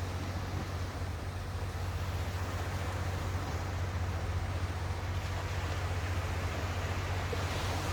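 Ocean surf washing steadily on the shore, under a constant low rumble of wind on the microphone.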